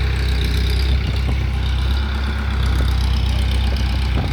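Heavy truck's diesel engine idling steadily with a deep low hum, and a short knock near the end.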